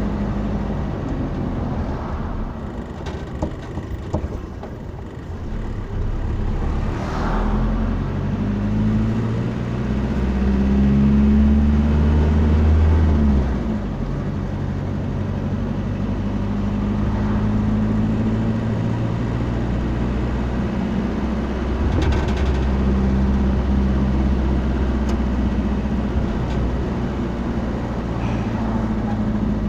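A motor vehicle running, its low engine hum stepping up and down in pitch over a steady bed of road noise; it is loudest about ten to thirteen seconds in.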